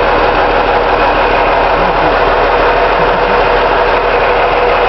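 Garbage truck engine idling steadily, heard from underneath the truck close to its muffler and exhaust.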